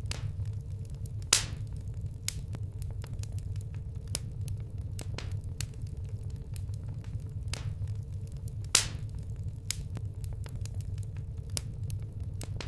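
Wood campfire crackling, with scattered sharp pops and two louder snaps, about a second and a half in and near nine seconds, over a steady low rumble.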